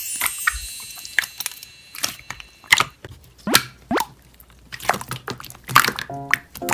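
Slime being squished and poked, with irregular sticky clicks, pops and small air-bubble pops. A tune with steady notes comes in about six seconds in.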